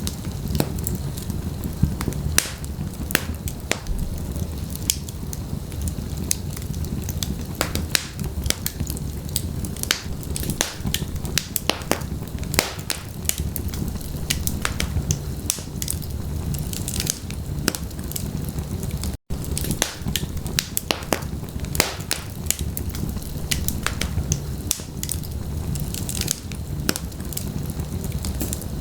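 Fireplace fire burning, with a steady low rumble of flames and dense, irregular crackles and pops. The sound cuts out for an instant about two-thirds of the way through.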